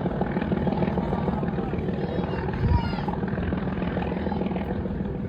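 Nilgiri Mountain Railway train running, a steady low rumble with a fast, even pulsing.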